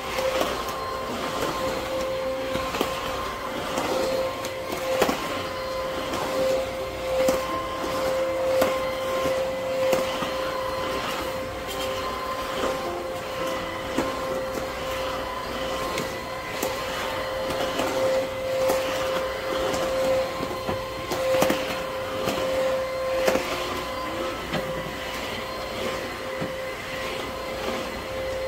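Vacuum cleaner running steadily with a constant whine, with frequent irregular clicks and knocks over it.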